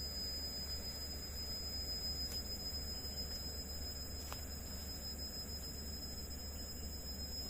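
Steady forest night ambience: insects keep up a continuous high-pitched drone over an even hiss, with two faint clicks in the middle.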